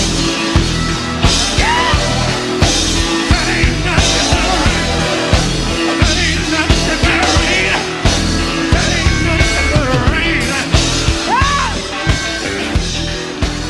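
Live gospel quartet band playing a driving groove, with regular drum hits and a bass line, and short sung cries over it.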